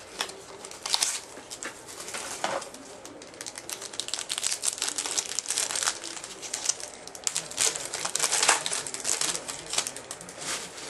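Trading card pack wrapper crinkling and tearing as it is opened and handled, in a run of rustling stretches and sharp crackles.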